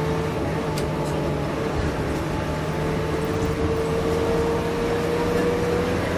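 Inside a moving bus: the engine and drivetrain drone steadily, with a whine that slowly rises in pitch. A faint tick comes about a second in.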